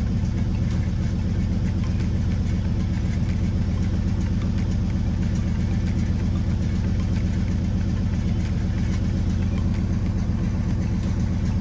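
Pickup truck engine idling steadily with an even low pulse, left running to recharge its battery after the truck sat unused and needed a borrowed battery to start.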